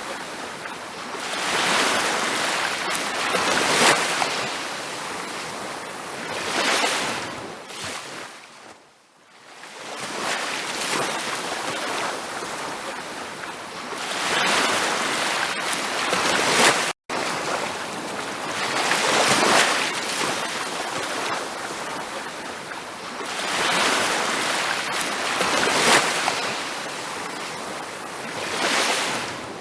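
Ocean surf washing onto a beach, each wave swelling and fading every few seconds, with a quieter lull about nine seconds in. The sound cuts out for an instant about 17 seconds in.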